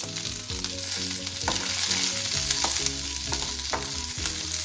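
Cut onions sizzling in hot oil in a nonstick frying pan, with chana dal and dried red chillies, as a wooden spatula stirs them, scraping and knocking on the pan about once a second.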